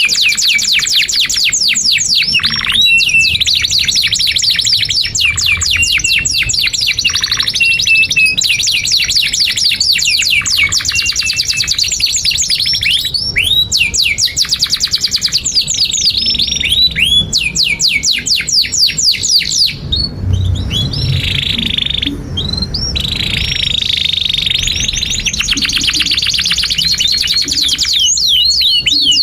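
Domestic canary singing a long, unbroken song: fast, high-pitched trills of repeated chirps sweeping downward, rolling from one run of notes into the next with only brief breaks.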